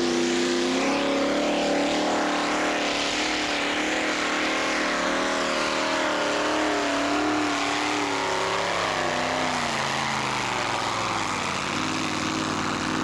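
Pulling tractor's engine working hard under load as it drags the weight sled, its note wavering up and down. The pitch sags from about eight seconds in, then settles to a steadier, lower note near the end.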